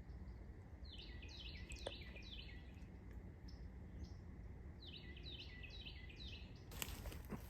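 Carolina wren singing: two bouts of quickly repeated falling phrases, a few seconds apart. Near the end, a rustling, crinkling noise starts.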